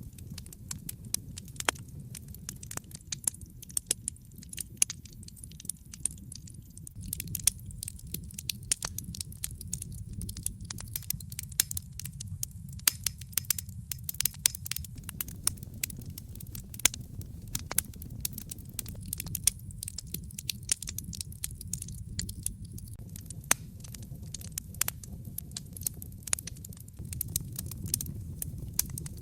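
Wood fire crackling in a fireplace: many sharp irregular pops and snaps over a steady low rumble of burning.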